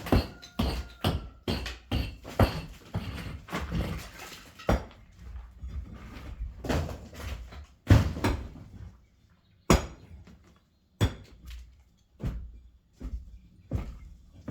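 Knocks and thuds from hand demolition of a brick wall: a rapid, irregular run of impacts for the first five seconds or so, then single heavy knocks about once a second.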